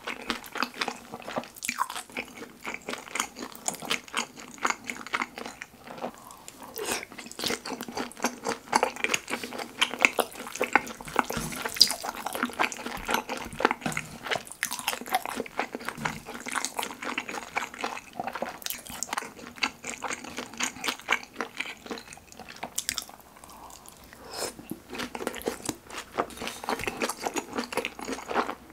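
Close-miked eating of kimchi pizza tangsuyuk (saucy fried pork under melted cheese): a dense, steady run of wet chewing and lip-smacking clicks, with a short quieter lull about three quarters of the way through.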